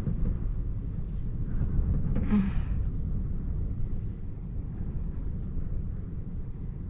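Strong wind buffeting the microphone: an uneven low rumble, with a brief louder rush about two seconds in.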